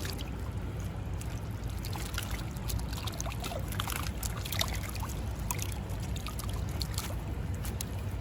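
Creek water trickling and splashing, with a steady low rumble underneath and scattered small ticks.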